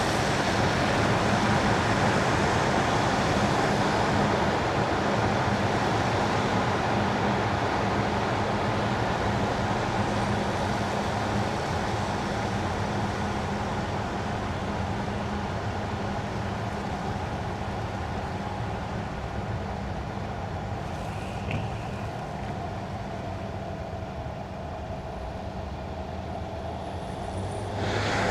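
Tyres hissing on wet winter asphalt over a steady low car hum. The road noise slowly grows quieter, then rises again sharply near the end.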